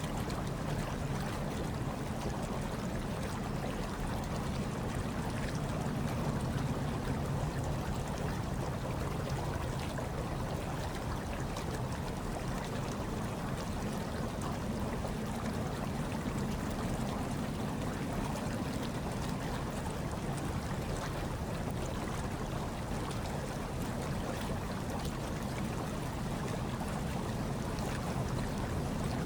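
Hot tub water churning and bubbling steadily, with a continuous low rumble from the jets.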